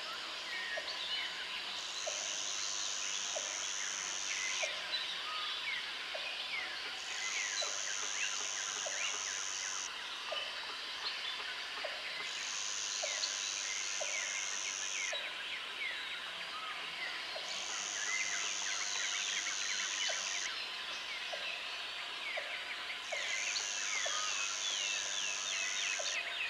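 Jungle ambience: an insect's high buzzing trill switches on for two to three seconds and off for about two, five times over, above many overlapping bird chirps and whistles and a regular tick about once a second.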